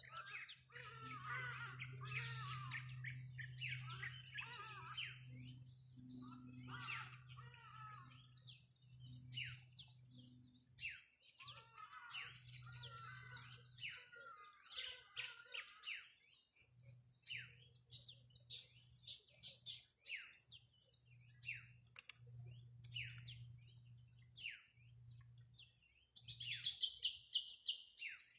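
Songbirds singing and chirping: warbling phrases through the first half, then many quick, short chirps, with a steady high trill near the end. A low, steady hum runs underneath.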